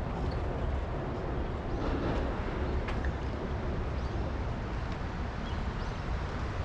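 Steady low rumble and hiss of riding a bicycle through city streets: wind and road noise on the microphone with traffic around, and a few faint short ticks.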